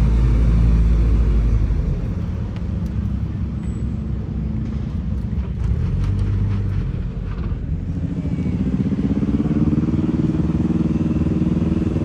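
A car engine running, its pitch climbing from about two-thirds of the way in and then holding higher, as a car is revved or pulls away.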